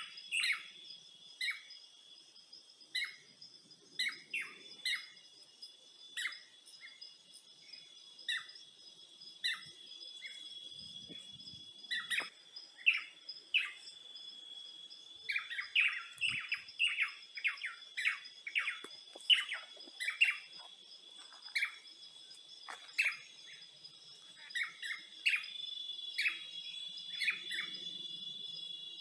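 Birds chirping in short, repeated calls, about one a second at first and busier in the second half, over a steady high insect drone.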